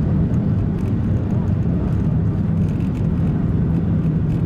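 Car engine and tyre noise while driving: a steady, even low drone.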